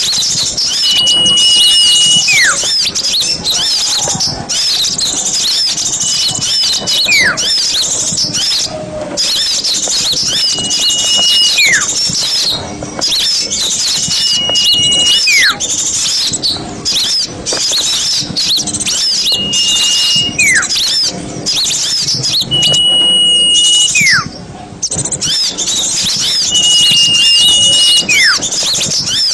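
A dense chorus of many small birds chattering and twittering at once. Over it, a clear whistle is held for about a second and then slides sharply downward, repeated about every four seconds.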